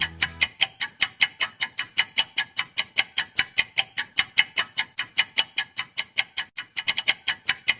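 Clock-style ticking sound effect for a quiz countdown timer, rapid even ticks at about six a second.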